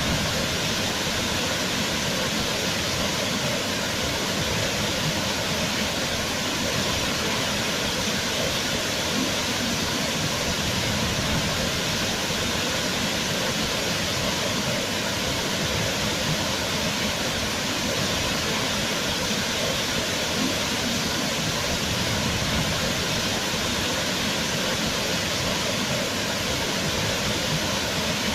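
Waterfall: water pouring and crashing as a steady, unbroken rush.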